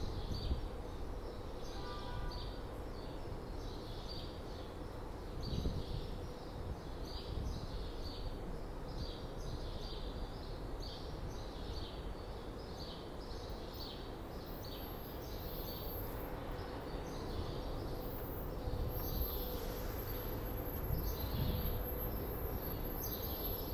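A small bird chirping over and over, about two short high chirps a second, over a steady low rumble and a faint steady hum.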